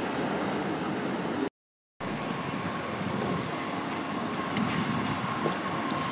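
Diesel multiple-unit train running steadily as it pulls away, engine and wheels on the rails. About a second and a half in the sound drops out briefly, then another diesel unit is heard approaching, with a thin steady whine over the rumble.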